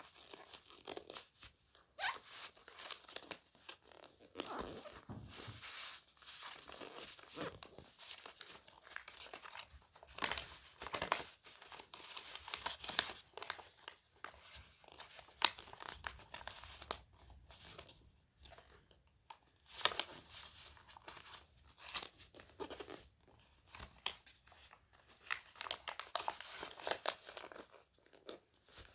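A sheet of paper being folded and creased by hand: irregular rustling and crinkling with sharp crackles scattered throughout.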